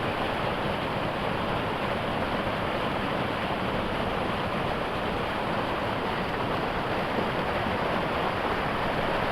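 River waterfall: water pouring steadily, an even rushing noise that doesn't change.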